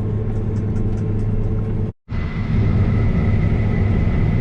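New Holland CR 9.90 combine harvester running with a steady low drone. It breaks off abruptly about halfway through, and when it returns a steady high-pitched whine rides on top.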